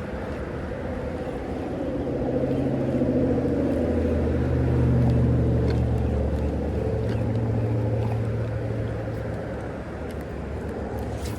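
A low engine drone swells to a peak and fades away over several seconds, the sound of a motor vehicle passing by. Steady water and outdoor noise sits beneath it.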